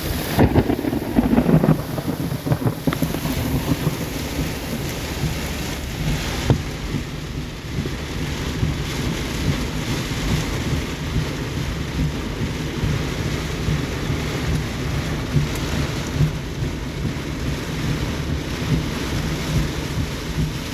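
Severe thunderstorm: a loud rumble of thunder about half a second in, then steady heavy rain and gusting wind.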